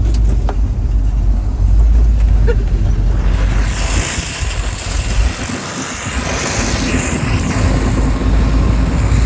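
A vehicle engine running while moving, with heavy wind rumble on the microphone. A hiss of rushing air grows louder about three and a half seconds in.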